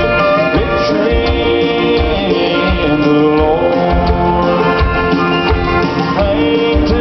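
Live country band playing loud, with steady drum hits under a lead melody that slides between notes.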